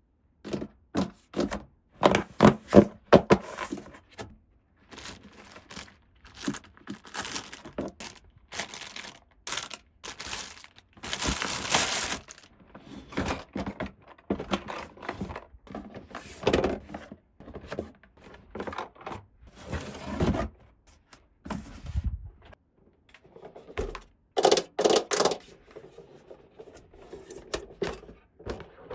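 Hands unpacking a plastic toy playset: a string of short taps, clicks and knocks from plastic pieces and packaging being handled, with a longer rush of crinkling around eleven seconds in.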